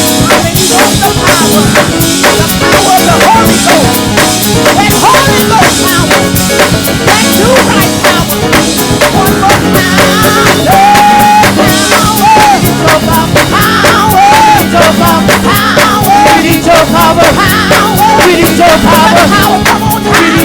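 Live gospel praise band playing loudly: a drum kit keeps a dense, driving beat with snare and rimshot hits, under keyboard and bass. From about halfway through, voices sing long, sliding notes over the band.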